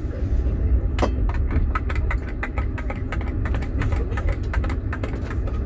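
Passenger train running with a steady low rumble, joined about a second in by a rapid, irregular clatter of wheels clicking over rail joints and switches.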